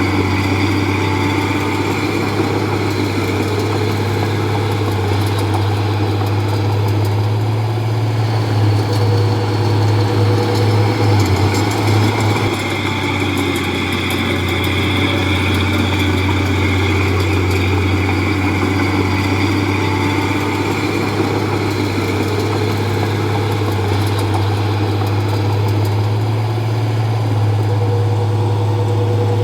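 Diesel engine of a Komatsu D31P bulldozer running steadily with a deep, even hum, growing slightly louder for a few seconds near the middle.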